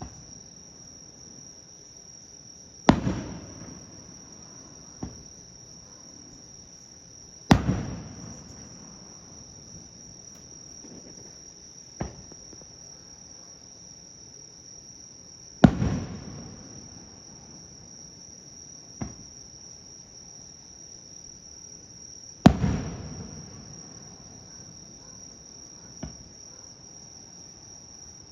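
Aerial firework shells bursting four times, several seconds apart, each loud bang trailing off in a long echo. Fainter single cracks fall between them. Insects keep up a steady high trill underneath throughout.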